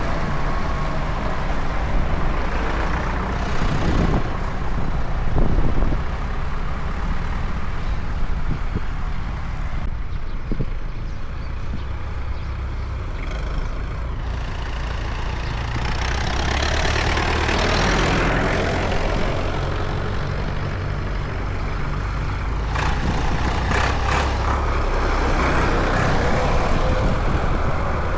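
Tractor engines running on the road, with louder swells as tractors pass close, one about two-thirds of the way through and another near the end.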